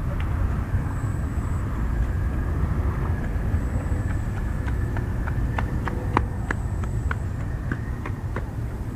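Low, steady rumble of a Boeing 737-500's CFM56 jet engines at takeoff thrust, slowly fading. A scatter of sharp clicks comes through the middle.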